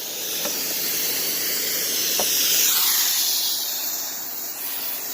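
High-pressure water jet from a pressure washer hissing against the car's bodywork, growing louder to a peak about halfway through and then easing off.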